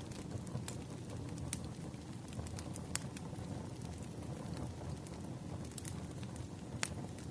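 Campfire burning: a steady low rumble of flames with scattered sharp crackles and pops of burning wood, the loudest pops about a second and a half in, three seconds in and near the end.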